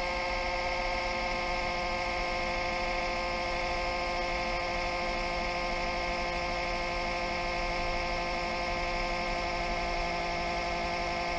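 Failing cooling fan in a Toshiba REGZA RD-R100 DVD recorder making a steady whining hum of several tones at once, wavering slightly. The owner puts the noise down to the cooling fan having died.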